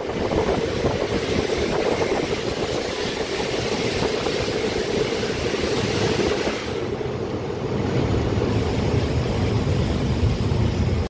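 Passenger train running slowly, heard from an open carriage door: a steady rumble of wheels and running gear, with a deeper hum strengthening about two-thirds of the way through.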